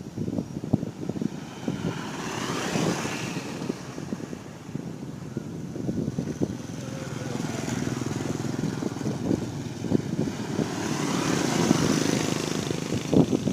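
Vehicle noise: a steady rumble with two passes that swell and fade, one about two seconds in and another near the end.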